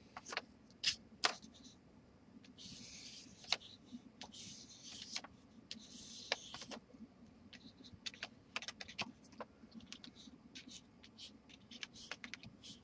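Oil pastel rubbing on watercolour paper in several scratchy strokes of about a second each, mixed with many sharp little clicks and taps, which come thicker in the second half.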